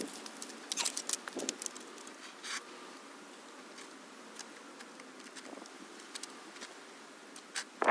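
A pause in sawing: a few light clicks and rustles in the first second or two, then a faint steady outdoor hiss.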